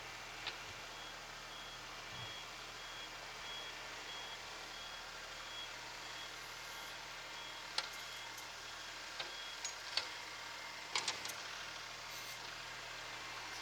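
Tractor's reversing buzzer beeping in an even series of short high beeps over the running engine while the tractor backs up; the beeping stops about two-thirds of the way through. A few sharp clicks and knocks follow near the end.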